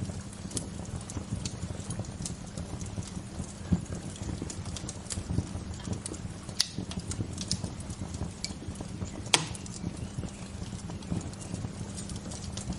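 Wood fire crackling, with a low steady rumble of flames under constant small snaps and a few sharper pops.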